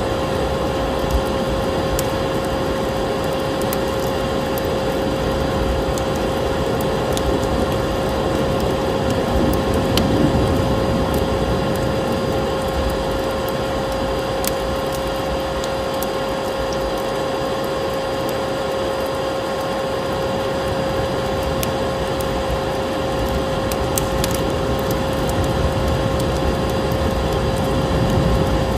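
Steady vacuum cleaner motor hum over a dense rushing noise, layered with the crackle and pops of a wood fire in a fireplace.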